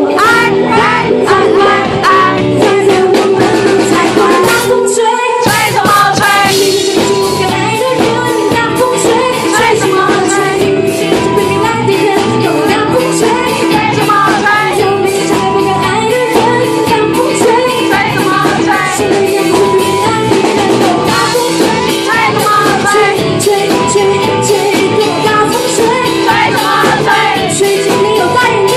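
A live pop-rock band with a woman singing over drums and bass; the low end drops out for a moment about five seconds in, then the full band comes back.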